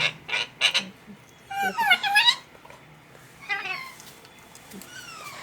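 Pet parrot calling: a few quick squawks at the start, then a burst of fast warbling chirps about two seconds in, a shorter chirp near the middle and a falling whistle near the end.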